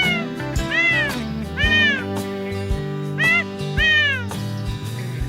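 A kitten meowing five times in quick succession, each meow rising then falling in pitch, over background music with a steady beat.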